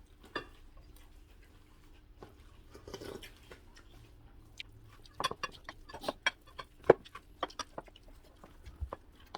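Tableware clicking against bowls and plates while eating: a few light clicks at first, then a quick irregular run of clicks and taps in the second half.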